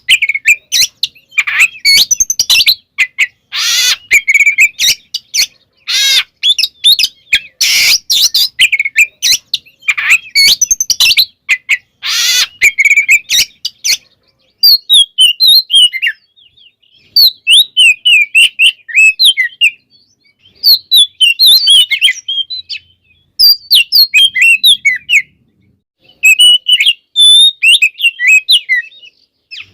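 Oriental magpie-robin (kacer) singing a loud, varied song packed with different phrases. For the first half the song is mixed with harsh, scratchy notes. After that it comes as clear whistled phrases in bouts, with short pauses between them.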